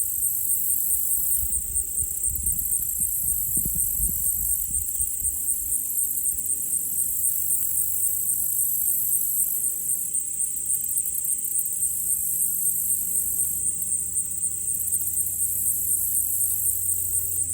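A steady high-pitched insect chorus with a fast, even pulse, over a faint low rumble.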